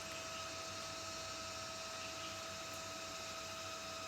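A steady electrical hum made of two constant tones, one the octave of the other, over an even background hiss.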